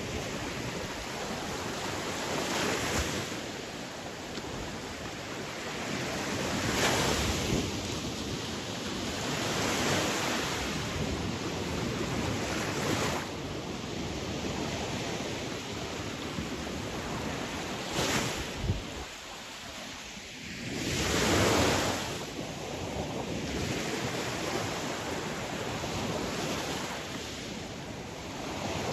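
Sea waves breaking and washing on a shore, a steady rush of surf that swells every few seconds, the biggest wave about two-thirds of the way through. Wind rumbles on the microphone underneath.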